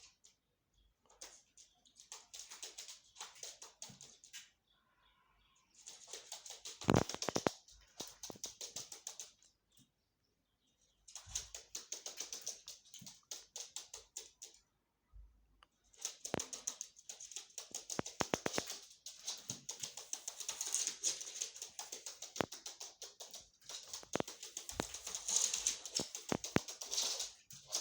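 Chukar partridge sounds: runs of rapid, sharp clicking notes in bursts of a few seconds, with short pauses between them and a fuller, louder burst about seven seconds in.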